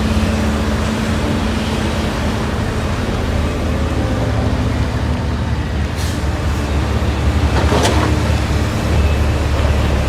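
Heavy diesel mining machinery running with a steady low rumble. There is a faint short hiss about six seconds in and a louder, brief sharp hiss near the eight-second mark.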